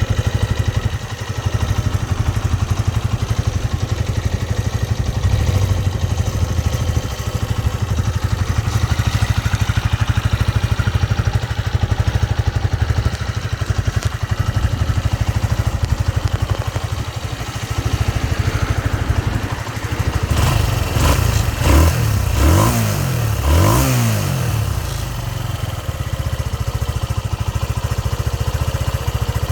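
Honda CB125JX motorcycle engine with its fully stock exhaust idling steadily, then blipped in a few quick revs about two-thirds of the way through before settling back to idle.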